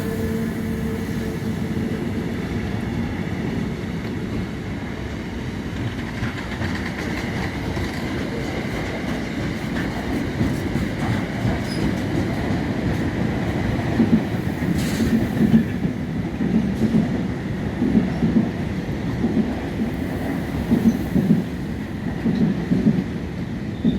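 Train passing on the rails, a steady rumble. From a little past halfway, wheels clack over rail joints in a regular rhythm.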